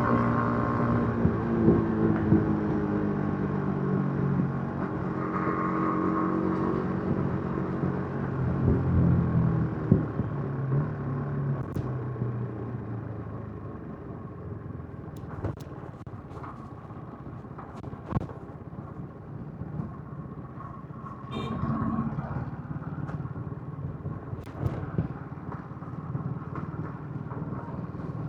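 Yamaha MT-15's 155 cc single-cylinder engine running through its stock exhaust while riding. The engine note is strongest and shifts in pitch over the first ten seconds, then drops to a quieter run with road noise, rising again a little after twenty seconds.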